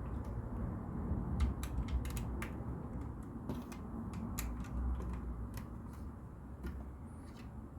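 Plastic LEGO bricks clicking as pieces are handled and pressed together: a scatter of sharp, irregular clicks over a low steady hum.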